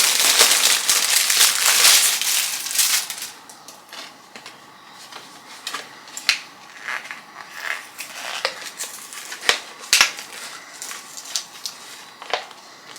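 Crinkly packaging being crumpled and torn open by hand, loud for about the first three seconds, then quieter scattered clicks and taps as the small item inside is handled.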